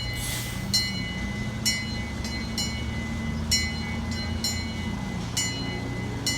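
Ride-on scale zoo train's small diesel engine idling steadily, with a level-crossing signal bell striking about once a second. A brief hiss near the start.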